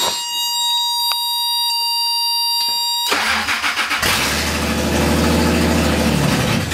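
A steady warning-buzzer tone sounds for about three seconds. Then the starter cranks the Toyota 5VZFE 3.4-litre V6 briefly, and the engine catches about four seconds in and runs. This is a first start on freshly soldered engine-computer wiring.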